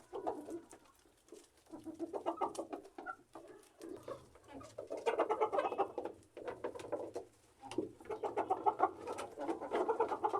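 Domestic birds calling in several bouts of rapid, pulsed calls.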